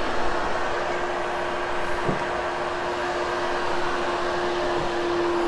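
Hoover Hush Tone upright vacuum cleaner running steadily on a shag carpet: an even whir with one constant hum note through it.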